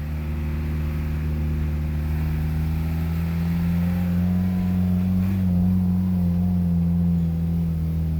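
Vehicle engine running steadily with a low hum, its pitch rising a little near the middle and then settling back.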